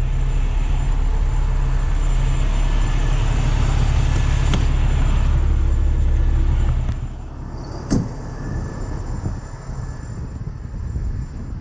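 Tow truck's diesel engine running steadily at raised revs, powering the winch, then dropping suddenly to a quieter level about seven seconds in. A sharp click follows about a second later.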